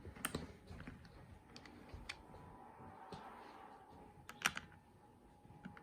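Scattered light clicks and knocks of a toy tractor being handled and played with, the loudest about four and a half seconds in.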